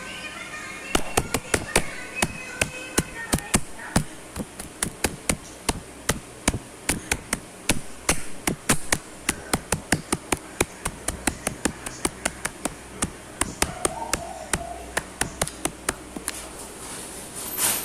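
Rapid, irregular clicking taps, several a second, with a brief rushing hiss near the end.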